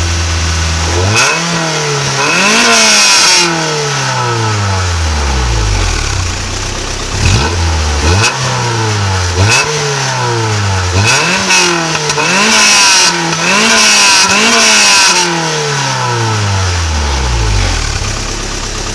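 1986 Toyota MR2's 4A-GE 1.6-litre four-cylinder engine, heard at the tailpipe through its stock exhaust, revved repeatedly from idle. One longer rev is followed by a run of quick blips that rise and fall in pitch, and the engine drops back to a steady idle near the end. Significantly louder than expected.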